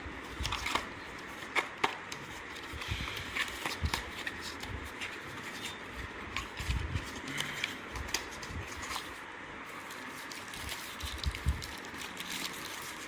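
Hands handling the packaging and contents of a small charger box: scattered light clicks, taps and rustles of paper and plastic.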